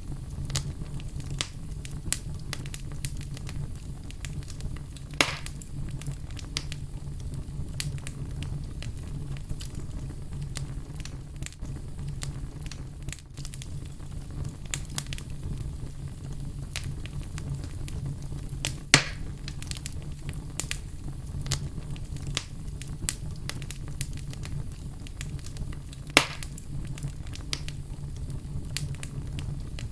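Fire crackling: frequent small snaps over a steady low rumble, with three louder pops spread through it.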